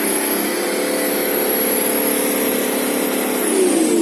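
Nissan Patrol's RD28T 2.8-litre straight-six turbodiesel held at high revs, with a high whistle riding on top, then dropping back about three and a half seconds in. It is being revved hard to blow leftover soot out of the exhaust.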